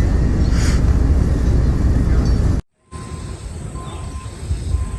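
Dense, loud low rumble that cuts off abruptly about two and a half seconds in; after a brief silence, a quieter low rumble follows with a faint thin steady tone.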